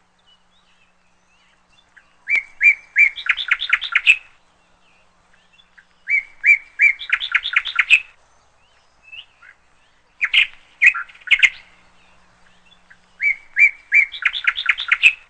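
A songbird singing four similar phrases, each about two seconds long and roughly four seconds apart. Each phrase is a few separate notes followed by a quick run of rapid, bright notes.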